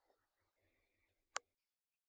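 Near silence broken by a single sharp click about one and a half seconds in.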